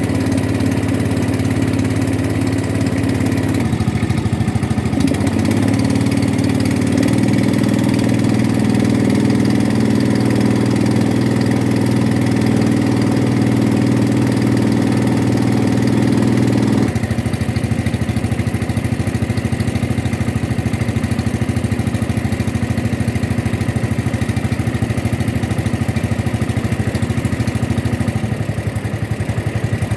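Boat engine running steadily, its speed changing a few times and settling lower about 17 seconds in.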